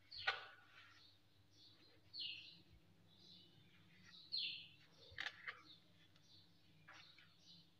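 Faint chirping of small birds, repeated every second or so. A knife clicks and scrapes on a plastic cutting board while cutting bread crusts, with a sharp click just after the start and another about five seconds in.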